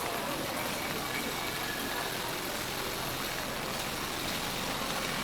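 Steady rain falling on a city street: an even, unbroken hiss of rain on wet pavement.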